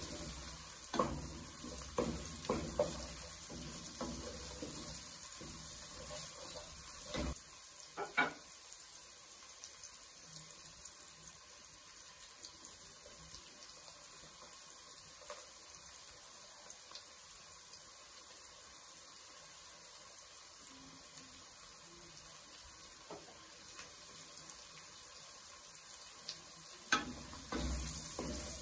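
Onions, peppers and snails sizzling steadily in oil in a metal pot, with a wooden spatula knocking and scraping against the pot during the first several seconds and again near the end.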